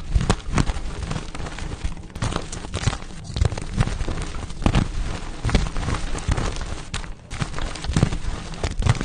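Pasted gym chalk blocks being crushed: a run of crunching and crackling with many small cracks and heavier crumbling thuds as the chalk breaks apart.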